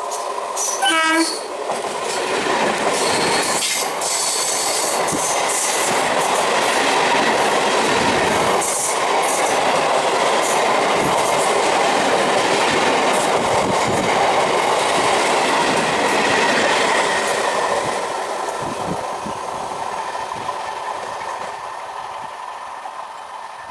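Electric multiple unit local train giving a short horn blast about a second in, then passing close at speed with loud, steady wheel and rail noise and clattering over the rail joints. The noise fades away near the end.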